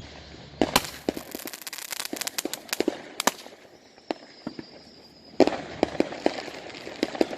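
Aerial fireworks going off in two spells of rapid sharp crackling and popping, the first starting about a second in and the second a little past the middle.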